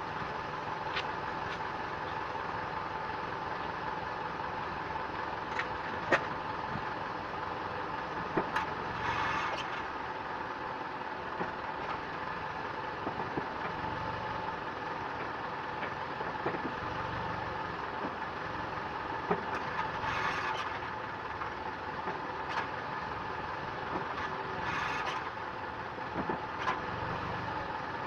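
Mitsubishi Outlander XL idling, with a short squeak from the CVT heard a few times as the selector is shifted from D to N.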